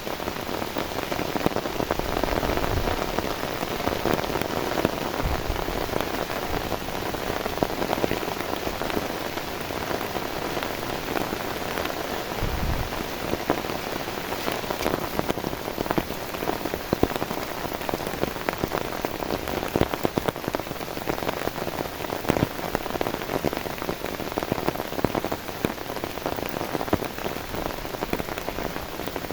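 Steady heavy rain, an even hiss dotted with many sharp individual drop hits, with a few brief low thuds, the clearest about twelve seconds in.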